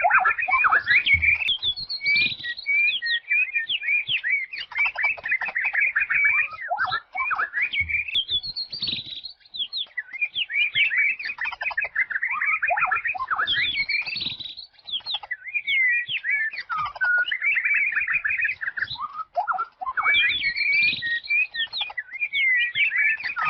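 Songbird chirping and twittering in fast, high-pitched phrases a few seconds long, with brief pauses between them.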